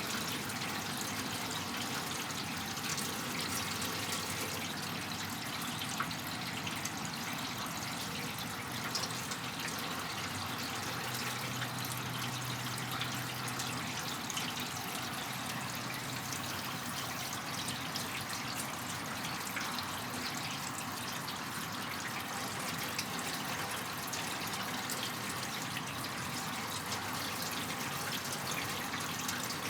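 Slow, steady rain falling, with dripping and trickling water.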